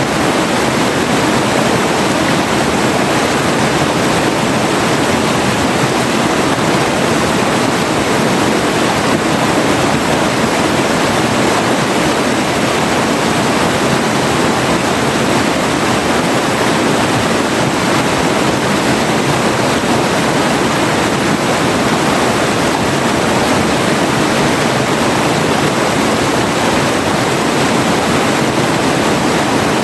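Forest river rushing over rocks: a steady, loud wash of flowing water.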